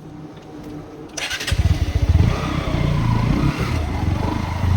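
Bajaj Pulsar NS160 motorcycle being started: the electric starter whirs briefly about a second in, then the single-cylinder engine catches with a loud pulsing note, is blipped once, and settles into a running idle.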